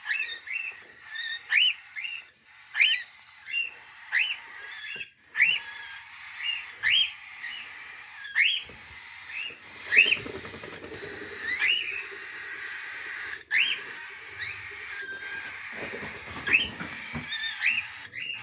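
A cockatiel giving a short rising whistled call over and over, about once every second or so, with fainter chirping from other birds behind it.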